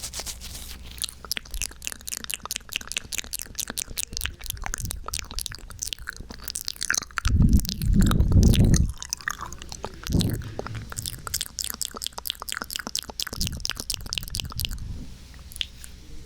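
Close-miked ASMR crackling and clicking into a 3Dio binaural microphone: a dense run of small wet clicks and crinkles, with a louder low rubbing rumble about seven to nine seconds in.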